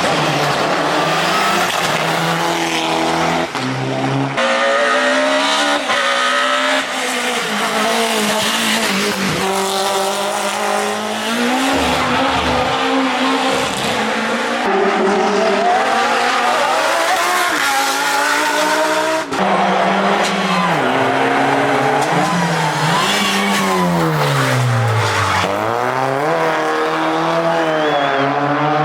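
Hill-climb race car engines revving hard and rising and falling in pitch through gear changes and corners, with tyre squeal. Several cars are heard in turn, and the sound changes abruptly a few times.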